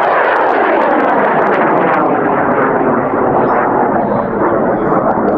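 Large M-class high-power rocket motor burning on boost: a loud, steady rushing roar with crackle, which begins to fade near the end.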